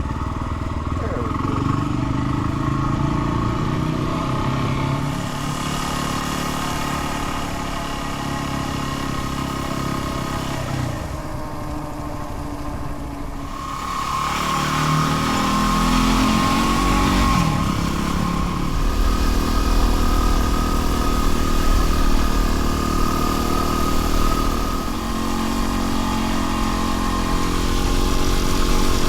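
Dual-sport motorcycle engine running under way, its pitch rising as it accelerates about a second in and again around halfway through.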